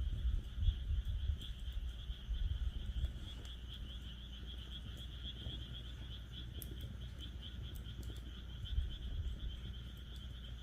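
A chorus of frogs calling in a steady, fast-pulsing high trill, with a few faint crackles from a wood campfire in a fire pit. Under it a low rumble, strongest in the first few seconds.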